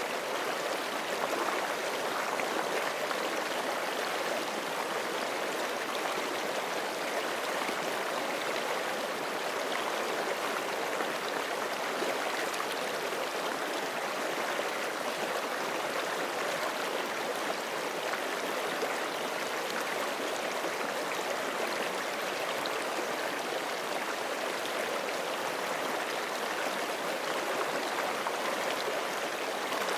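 Forest stream flowing over rocks: a steady, unbroken rush of running water.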